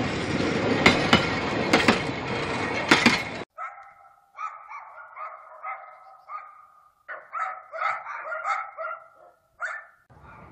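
Narrow-gauge diesel railcar and wagons rolling past, wheels clicking sharply over the rail joints, until the sound cuts off suddenly a few seconds in. Then a dog barking in repeated runs of short barks.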